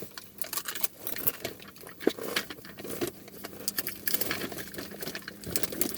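Irregular crackling and crunching clicks of potato chips being handled and bitten.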